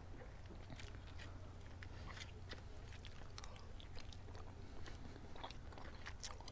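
Faint close-up chewing and mouth clicks of someone eating soft food, beef and rice, over a low steady hum.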